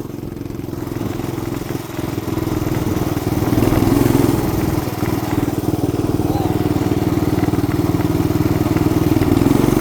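Mini bike's small engine running hard under throttle, the revs climbing a couple of seconds in and holding high, with a brief dip midway.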